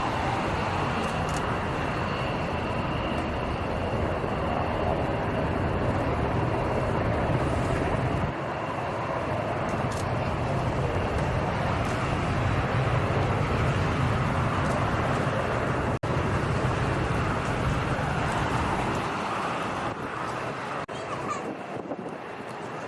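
Steady aircraft engine noise, a rumble and hiss under a high, steady whine. It thins out and gets quieter near the end.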